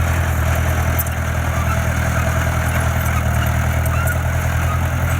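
Diesel engine of heavy construction equipment (bulldozer or dump truck) running steadily at a low, even drone.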